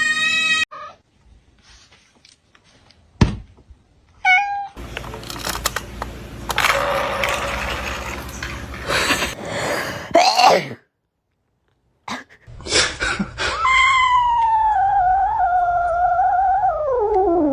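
A cat meowing: a short meow about four seconds in, and near the end a long, wavering yowl that drops in pitch as it ends. A single sharp knock comes about three seconds in.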